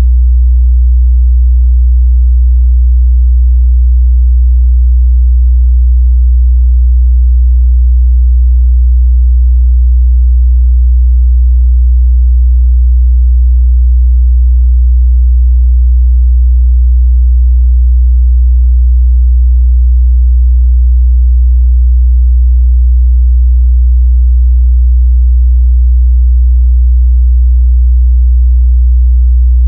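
A steady, loud 61 Hz sine-wave test tone, a pure low bass hum held unchanged, used to check a speaker's or headphone's mid-bass response.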